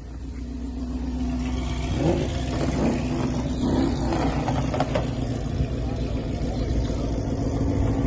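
A car's engine and exhaust rumbling with a steady low note, getting louder over the first two seconds and then holding loud.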